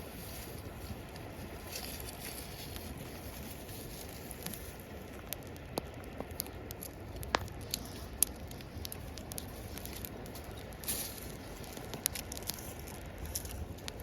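Wood campfire crackling, with scattered sharp pops, a few of them much louder, over a steady background hiss.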